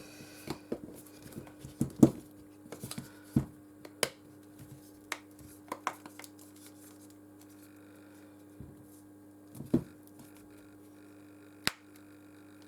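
Irregular small clicks and taps of hand tools and phone parts being handled while a smartphone is reassembled, the loudest about two seconds in and another sharp one near the end, over a steady low hum.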